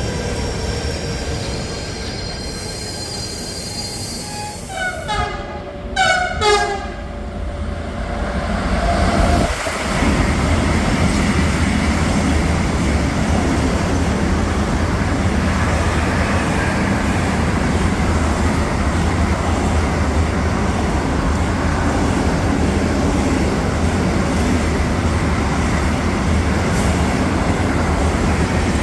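Train horn sounding a few short blasts, then a goods train running through the station with steady loud wheel and rail noise.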